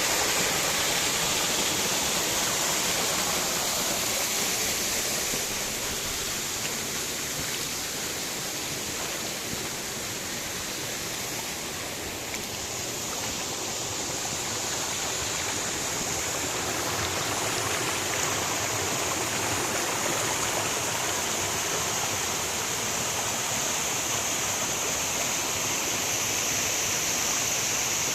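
Rushing water of a stream, a steady hiss that dips slightly in the middle.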